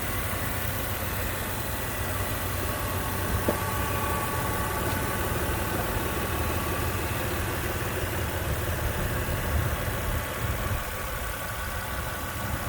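Toyota 4Runner engine idling steadily, freshly refreshed with new plugs, plug wires and gaskets, with a faint steady whine over the low running note.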